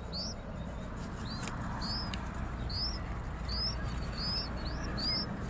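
Nestlings chirping for food: short, high, upward-sweeping cheeps repeated about every half second, over a low steady rumble.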